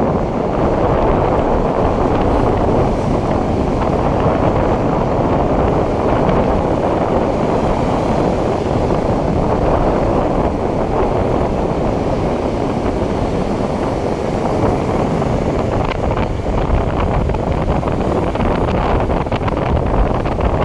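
Strong wind buffeting the microphone over a steady rush of surf on a shore at high tide.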